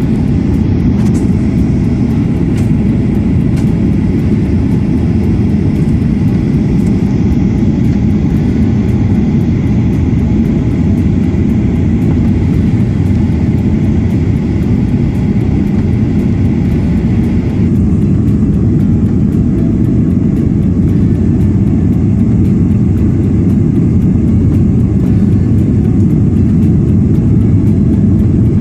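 Airliner cabin noise in flight: a steady low rumble of jet engines and airflow, with a faint high whine that stops about two-thirds of the way through.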